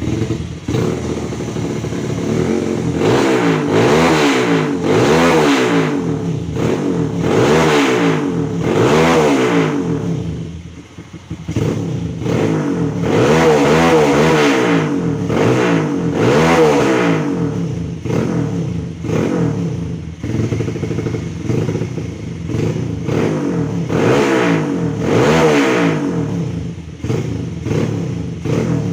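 Bored-out Honda GL100 single-cylinder four-stroke motorcycle engine breathing through an aftermarket Fanterra exhaust, revved again and again in short blips, its pitch rising and falling each time. The revs drop back briefly about ten seconds in before the blipping resumes.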